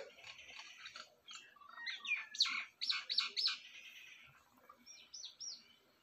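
Birds chirping. A loud run of quick, sharp repeated notes comes about two seconds in, and a few short high notes follow near the end.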